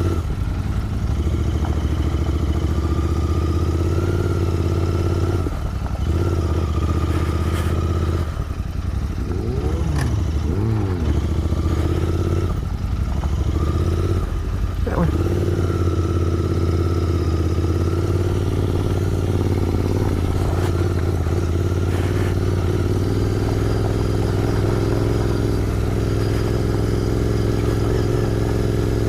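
Royal Enfield Interceptor 650's 648 cc parallel-twin engine running with the bike under way. The engine note drops and picks up again several times in the first half, then holds steady at a cruise.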